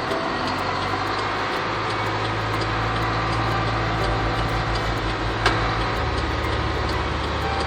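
A car driving slowly through a heavy sandstorm: a steady engine hum under a continuous rush of wind noise, with faint regular ticking and one sharp click about five and a half seconds in.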